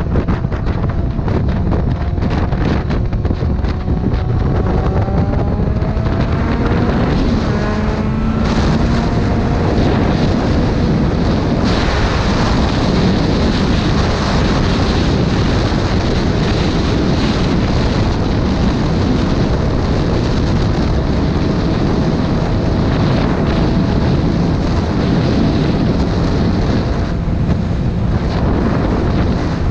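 Heavy wind buffeting on the microphone of a moving motorcycle, with the engine's note faintly rising as it accelerates, breaking off about eight seconds in, and holding steady later on.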